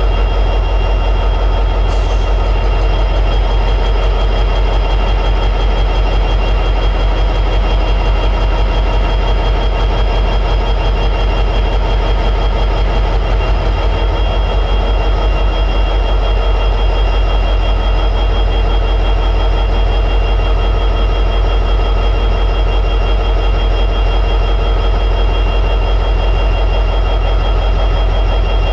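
EMD 710G3B two-stroke diesel prime mover of a locomotive running steadily at high idle: a loud, deep, even rumble with constant high whining tones over it, and one faint short tick about two seconds in.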